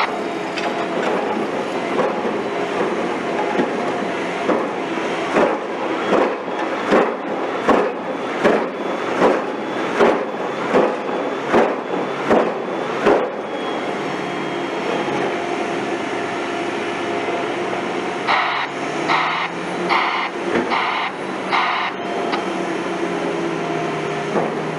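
Heavy construction machinery running with a steady drone. For several seconds it gives a run of regular knocks, a little over one a second, and near the end a faster series of sharper pulses.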